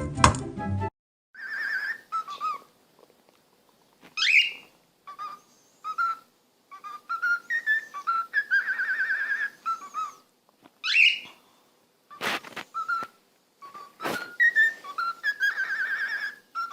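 Parrot whistling in short phrases: clear single notes, warbling trills and two swooping rising calls, with a couple of sharp clicks about twelve and fourteen seconds in.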